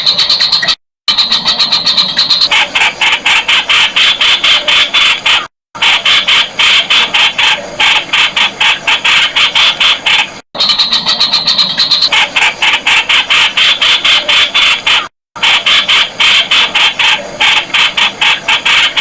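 Streak-eared Bulbul calling in a rapid run of sharp, harsh notes, several a second. The recording is looped: it cuts to silence for a split second about every five seconds, then starts again.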